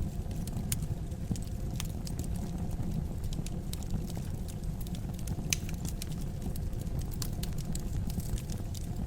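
Wood fire crackling in a fireplace: a steady low rumble of burning logs with frequent sharp, irregular pops and snaps.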